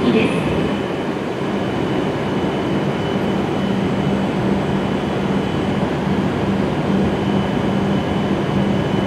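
A W7 series Shinkansen train standing at the platform and running its equipment. It makes a steady, even noise with a low hum that pulses at regular intervals and a thin, steady high whine.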